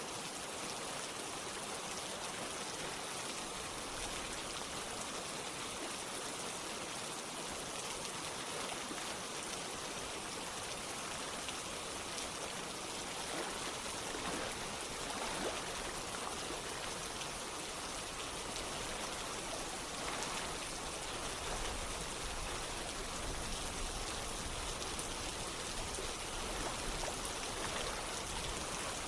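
Steady rain falling together with running water, an even wash of drops and flow. A low rumble comes in during the later part.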